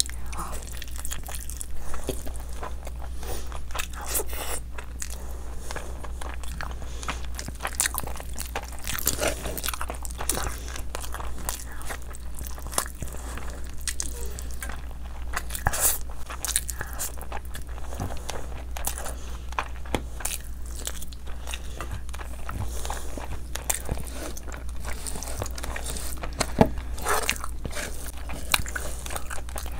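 Close-miked mouth sounds of eating chicken and rice by hand: chewing and biting with many irregular wet clicks, over a steady low hum.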